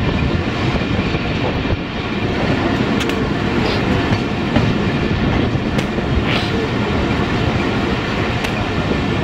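Passenger train running along the track: a steady rumble of wheels on rails, with a few sharp clacks now and then.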